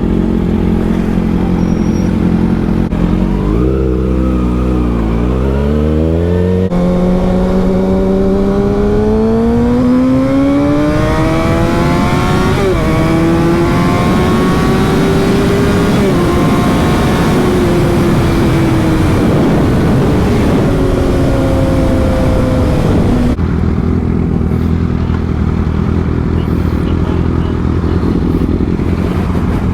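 Sport motorcycle engine under way. Its pitch dips briefly, climbs steadily as the bike accelerates, eases off, then drops suddenly to a low steady note near the end.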